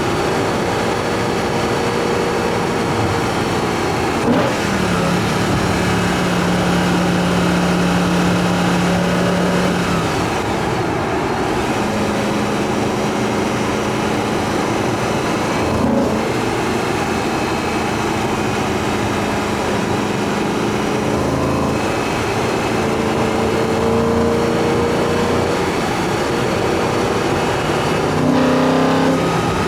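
BMW E90 M3's 4.0-litre V8 running under way, its intake heard through an Eventuri carbon intake plenum. The engine note holds steady for several seconds at a time and steps to a new pitch five times.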